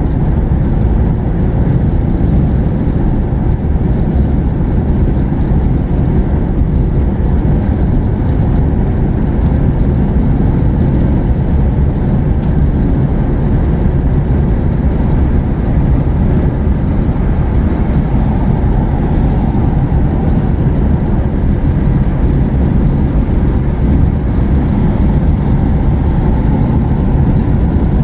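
Steady road and engine noise from inside a moving car's cabin: a constant low rumble that holds even throughout.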